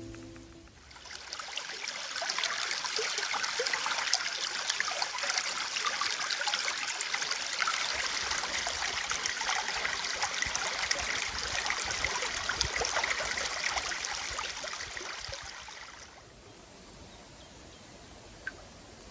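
Water trickling and splashing steadily, like a small stream. It cuts off suddenly a few seconds before the end, leaving quieter outdoor ambience.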